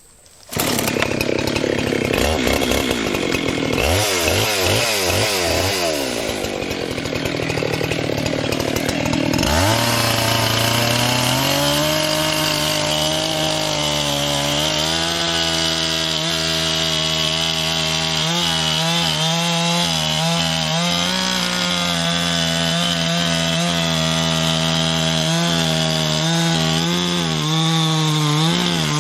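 Husqvarna 385 XP two-stroke chainsaw starting up sharply about half a second in, revving up and down several times, then held at high revs from about ten seconds in, cutting steadily into a black cherry trunk to thin the felling hinge on one side.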